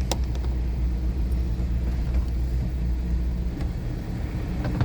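Car engine and road noise heard inside the cabin while crawling along at walking pace: a steady low rumble with a few faint clicks.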